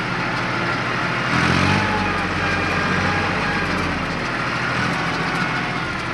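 Deutz-Fahr tractor's diesel engine running steadily, swelling louder for a moment about a second and a half in.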